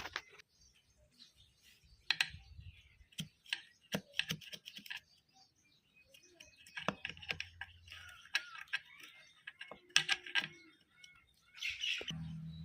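Irregular clicks and light taps, a few close together and others spaced apart, as from small metal parts of a sewing machine being handled and worked on by hand.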